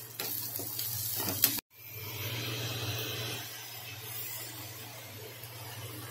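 Chopped onions and green chillies sizzling in oil in a frying pan; after a short break, chopped tomatoes sizzle in the pan, the hiss louder for a second or so, then settling. A steady low hum runs underneath, and a single sharp click comes about a second and a half in.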